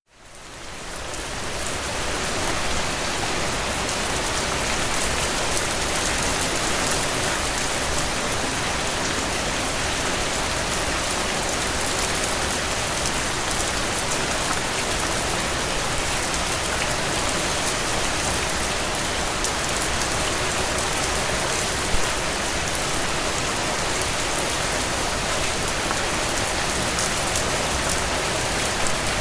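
Steady rain falling, a dense even patter of drops on a surface, fading in over the first two seconds; one slightly louder drop or tap stands out about 22 seconds in.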